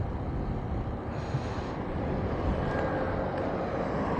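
Highway traffic going by: a steady low rumble, with a brief hiss of a passing vehicle about a second in.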